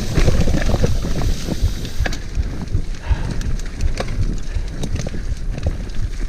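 Mountain bike riding over a rough, muddy trail: wind buffeting the camera microphone, with many irregular knocks and rattles from the bike over the uneven ground.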